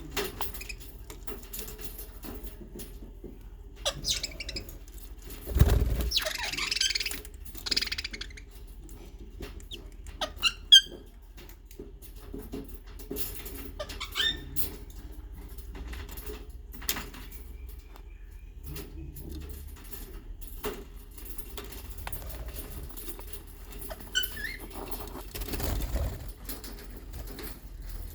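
Pet budgerigars: a burst of wing flapping about six seconds in, with a few short, scattered chirps and small clicks.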